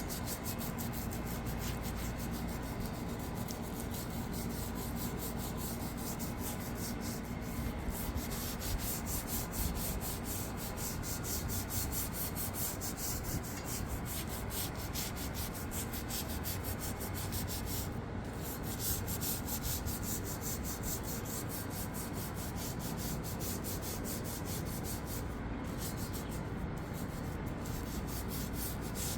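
Continuous scrubbing of a grimy surface, with fast, even, unbroken strokes, as caked-on dirt and bird mess are worked off.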